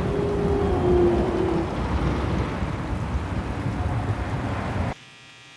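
A low, noisy rumbling drone, with a faint tone that steps down in pitch in the first second and a half. It cuts off abruptly about five seconds in, leaving only faint background hiss.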